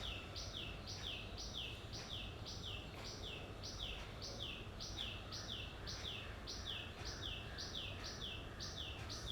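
A bird calling steadily: a short, high chirp that falls in pitch, repeated evenly about twice a second.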